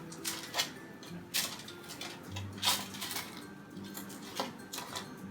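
A kitchen utensil clinking and scraping against a baking tray as pieces of tandoori chicken are turned over: about four sharp clinks spread across a few seconds.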